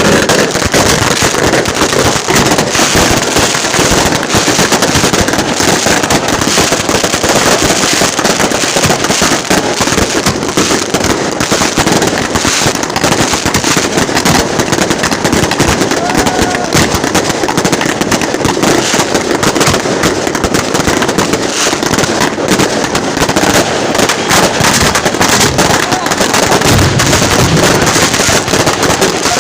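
Dense, continuous crackling of fireworks and firecrackers going off, many rapid overlapping bangs without a break, loud throughout.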